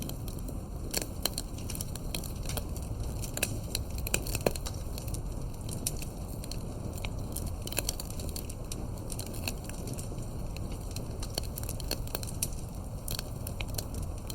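Campfire crackling: burning firewood gives off irregular sharp pops and snaps, many a second, over a low steady rumble of the flames. A few of the pops, around four seconds in, are louder than the rest.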